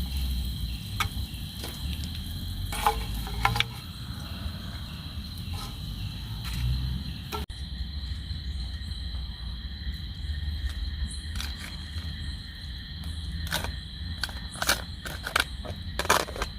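Night insects trilling steadily on a high, unbroken note, over a low rumble. Scattered sharp clicks and knocks come through, several of them close together near the end.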